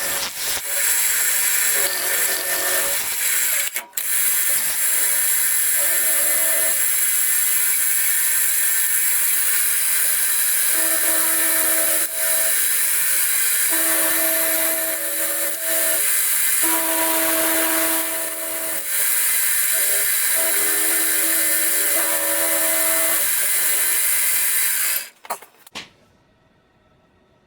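Milling machine running with a 1/2-inch end mill cutting a metal block in a heavy pass. It makes a loud, steady hiss with a pitched whine that comes and goes several times, then cuts off abruptly near the end.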